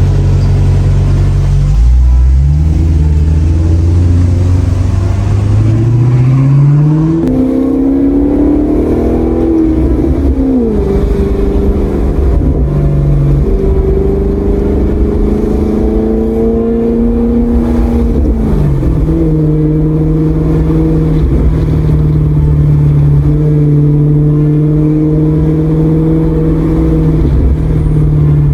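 Maserati GranTurismo V8 engine pulling through the gears: its pitch climbs and then drops sharply at each gear change, several times, and holds steady between pulls.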